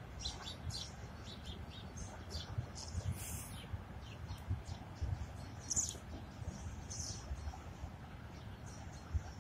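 Small birds chirping in many short, high calls, over a steady low rumble.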